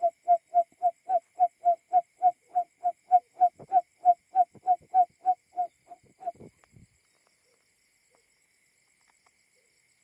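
Barred buttonquail call, billed as the male's simulated lure call: a rapid, evenly spaced series of low hooting notes, about three or four a second, that stops about six and a half seconds in.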